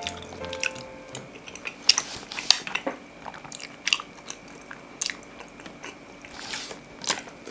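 Close-miked chewing of creamy macaroni and cheese: wet mouth sounds with sharp clicks at irregular intervals.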